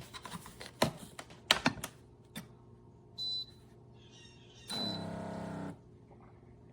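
Mecity single-serve coffee maker being started: a few sharp plastic clicks from handling the machine, a short electronic beep about three seconds in, then a steady electric buzz lasting about a second, with a beep at its start.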